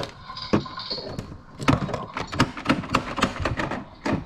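Hard plastic toy pieces being handled, a quick irregular run of clicks and clacks, busiest in the middle.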